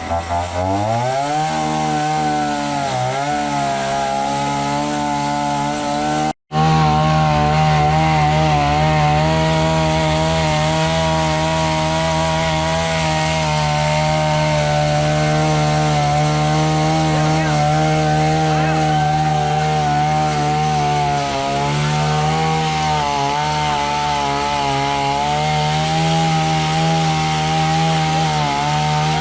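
Chainsaw revving up from idle in the first second, then running at high speed as it cuts storm-felled timber, its pitch dipping slightly now and then under load. It breaks off abruptly for an instant about six seconds in.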